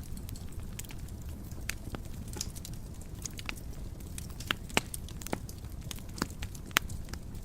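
Wood fire burning in a fireplace: a low steady rumble of flames with irregular crackles and sharp pops, the loudest pops a little past halfway and near the end.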